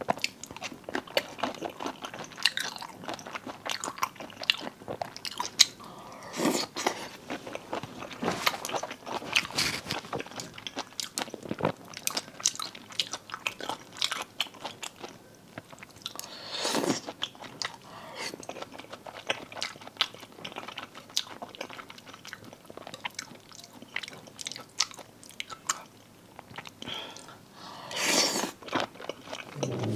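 A person eating marinated seafood close to the microphone: wet chewing and biting with many small clicks and smacks, and a few louder bites scattered through.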